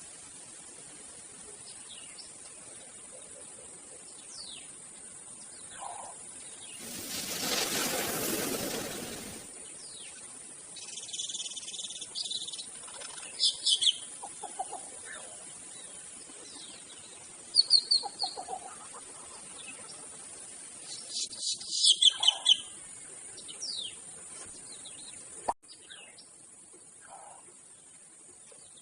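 Birds chirping in short clusters of rapid high notes over a steady background hiss. About seven seconds in, a rush of noise swells and fades over roughly two seconds.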